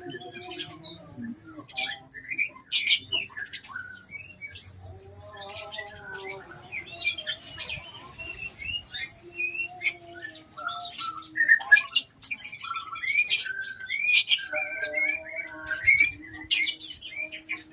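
Common iora (konin) singing a varied run of short chirps and whistled notes, with a steady, rapidly pulsing high trill behind it.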